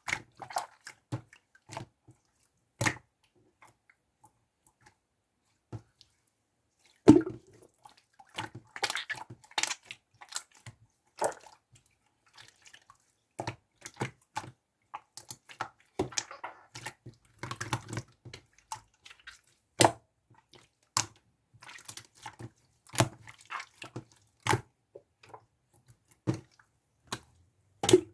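Irregular wet, sticky clicks and squelches close to the microphone. There is a lull of a few seconds, then a louder pop about seven seconds in, followed by busier crackling.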